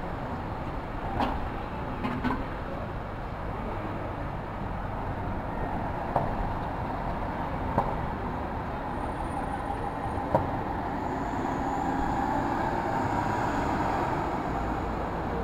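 New York City street traffic, a steady mix of engines and tyre noise, with a few short knocks. A vehicle passes near the end, swelling the sound and bringing a faint high whine.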